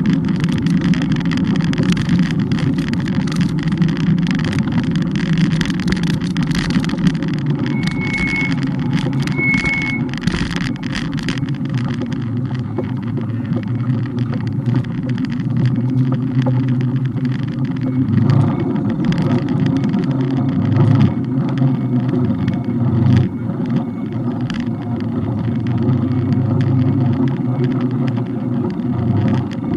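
Steady wind and road noise on a camera mounted on a moving bike, with two short high beeps about a second and a half apart, roughly a third of the way in.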